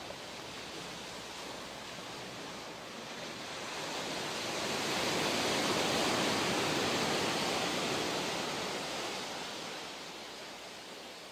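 Ocean surf: one wave surges in, swelling about three seconds in, peaking mid-way and washing back out near the end.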